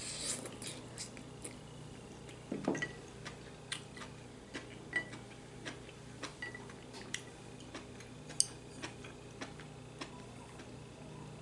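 Eating sounds: soft, irregular clicks of chewing and of utensils on the bowl, with a louder, fuller burst about two and a half seconds in.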